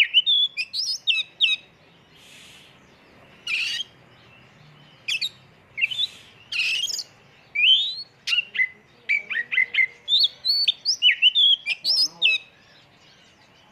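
Oriental magpie-robin (kacer) singing a fast, varied song of whistled notes, quick rising and falling sweeps and a few harsh buzzy notes, with short pauses between phrases. It is a song packed with fills and rapid bursts of the kind kept as a lure recording to trigger other kacer.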